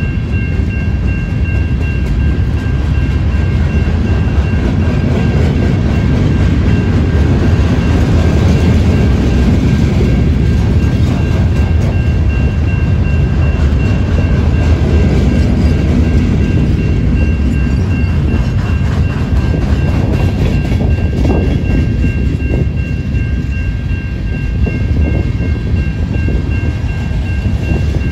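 Freight cars of a long train rolling past: a steady rumble of steel wheels on rail with a few clanks from the cars about three-quarters of the way through. A thin, steady high-pitched ring sounds over it.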